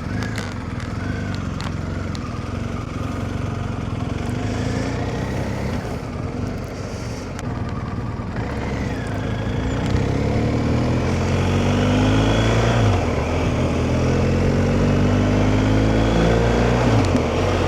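BMW R1250GS boxer-twin motorcycle engine running as the bike pulls away, steady at first, then accelerating with its pitch rising several times in the second half.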